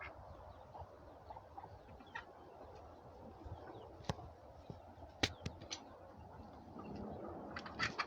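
Chickens and turkeys in a coop making faint, low calls, with a few sharp clicks around the middle.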